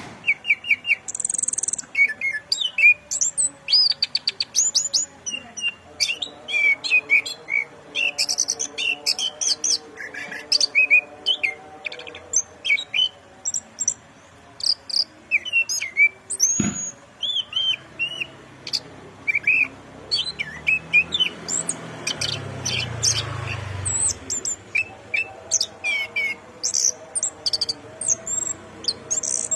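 Orange-headed thrush in full song: a fast, unbroken run of varied chirps, whistles and trills. A single sharp click sounds a little past halfway.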